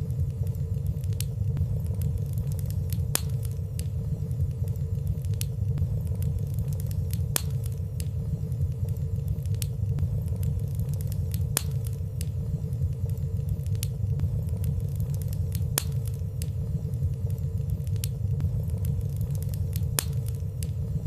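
Fire burning in a fireplace: a steady low rumble of flames with scattered faint crackling ticks every second or two.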